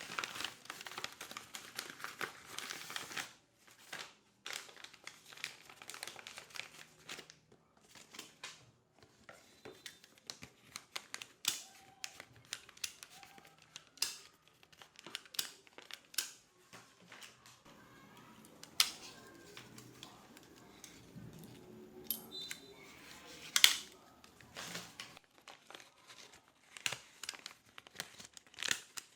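Office ambience: irregular clicks and taps of keyboard keys and a mouse, with paper-like rustling in the first three seconds and a faint murmur of voices in the middle.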